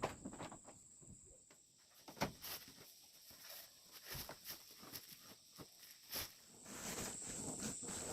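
Irregular light knocks and clicks, like handling or footsteps, over a steady high insect buzz that grows louder about seven seconds in.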